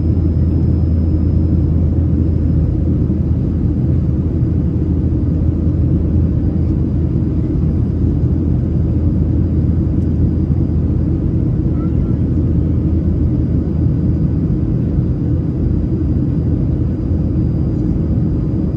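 Steady low roar inside the cabin of a Boeing 737-700 climbing after takeoff, from its CFM56-7B turbofan engines and the air rushing past the fuselage, with a faint thin whine above it.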